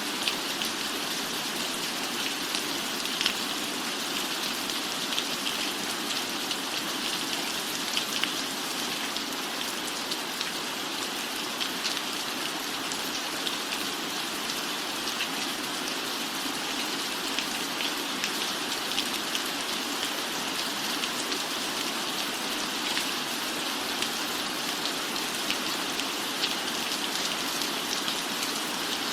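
Steady rain falling on a roof: an even hiss peppered with many small, sharp drop ticks.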